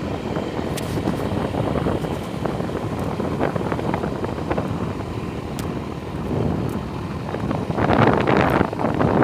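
A motorcycle on the move, its low running noise mixed with wind buffeting the microphone, which swells about eight seconds in.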